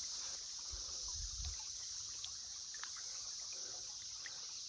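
Steady, high-pitched drone of a cicada chorus, with water trickling and a few low bumps about a second in.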